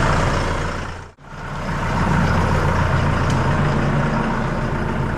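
Deutz tractor's diesel engine idling steadily after being started on a weak battery. The sound drops out briefly about a second in, then the engine carries on running.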